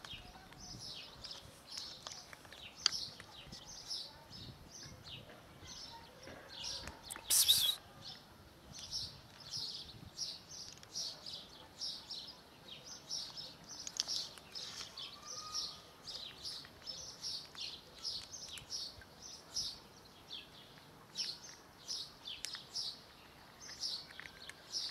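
Small birds chirping over and over, short high chirps about one or two a second, with one brief loud rush of noise about seven seconds in.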